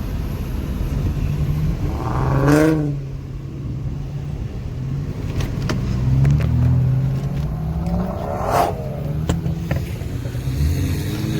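Car engines idling and rumbling at a car meet, with two quick throttle blips, one about two and a half seconds in and another about eight and a half seconds in.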